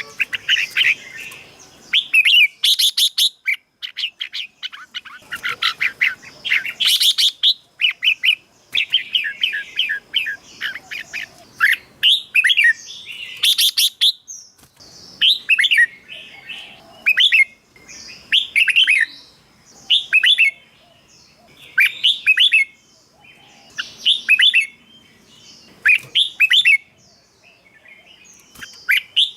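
Red-whiskered bulbul singing: short, bright whistled phrases. In the first half the phrases run together into quick chattering runs, and in the second half they come singly, about every second or two.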